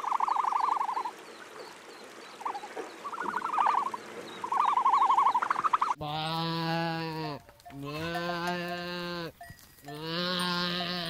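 A young goat kid bleating three times in the second half, each bleat about a second long. Before it come three short rattling trills from an animal.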